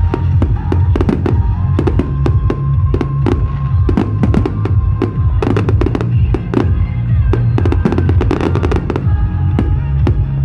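Fireworks going off in rapid, irregular bangs and crackles over loud music with a heavy bass.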